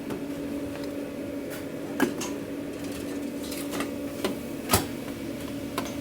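Light knocks and clicks of kitchen utensils and food containers being handled, a few sharp ones scattered through, over the steady hum of food-truck kitchen equipment.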